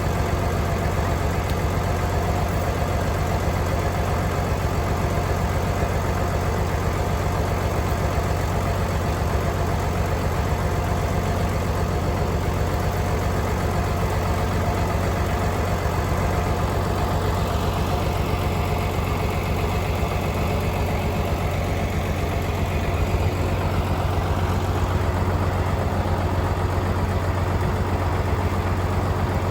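Tractor engine idling steadily, an even low hum that doesn't change.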